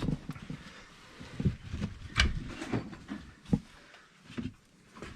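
A handful of short, scattered knocks and clunks, the loudest about two seconds in: tools and parts being handled against the engine while the crankshaft is set to position.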